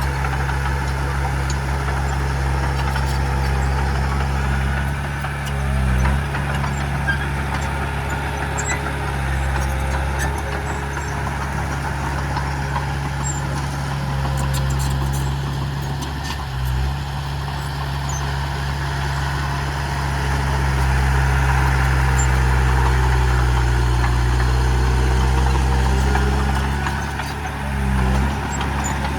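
Large diesel engine of an earthmoving machine running steadily with a low drone, which dips briefly three times, about six, seventeen and twenty-eight seconds in, with faint scattered clanks over it.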